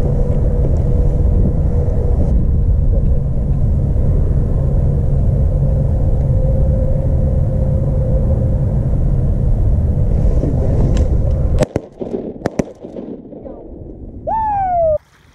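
Wind rumbling loudly on the microphone, cutting off suddenly about three-quarters of the way through. A few sharp clicks follow, then near the end one short falling honk-like call.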